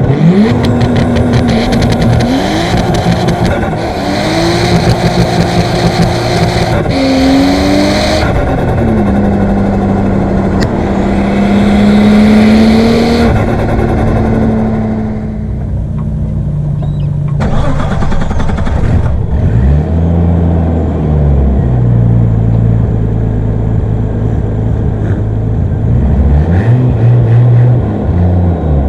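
Nissan Skyline R34 GT-T's single-turbo RB25DET NEO straight-six accelerating hard through the gears, the revs climbing and dropping at each shift, then easing off and revving up again. Short bursts of hiss come with the pulls.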